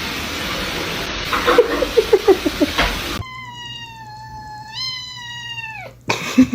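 A cat's single long meow, holding one pitch, stepping up partway through and sliding down as it ends. Before it comes a noisy stretch with a quick run of short low sounds.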